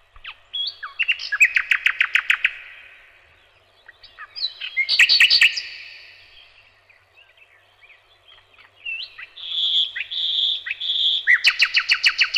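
A songbird singing in separate phrases: fast trills of repeated notes, then three drawn-out whistled notes, then another fast trill starting near the end.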